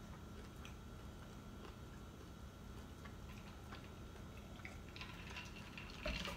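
Faint chewing with scattered small wet mouth clicks as a shrimp po' boy sandwich is eaten, over a steady faint hum. There is a louder short sound near the end.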